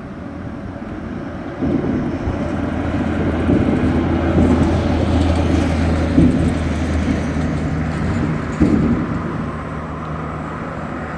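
Honey bees buzzing loudly around an open hive as its frames are lifted and inspected, with a steady droning hum that swells and wavers. Two sharp knocks sound about six and eight and a half seconds in.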